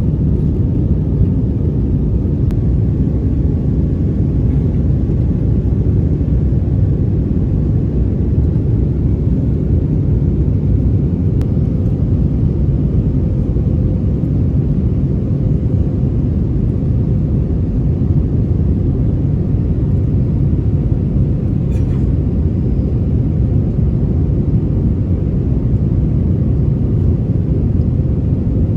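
Steady, low cabin rumble inside an Airbus A321 in flight: the constant noise of the engines and airflow heard from a passenger seat.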